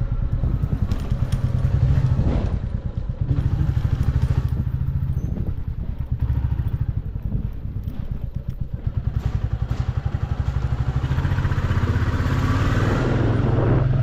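Motorcycle engine running under way, its pulsing note rising and easing as the throttle changes. Wind rushes louder over the microphone in the last few seconds as the bike picks up speed.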